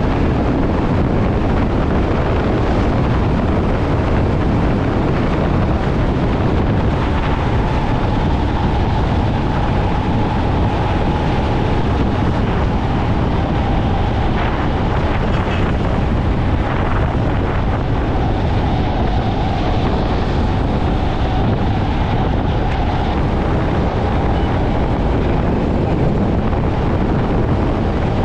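Wind buffeting the microphone of a motorcycle on the move, with the motorcycle running underneath in a steady, unbroken rush.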